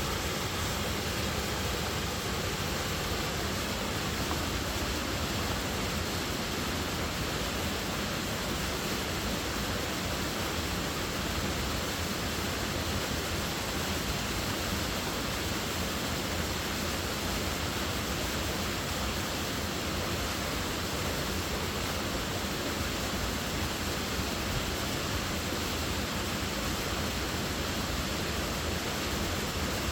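Waterfall: a steady, even rush of falling water, with no break or change.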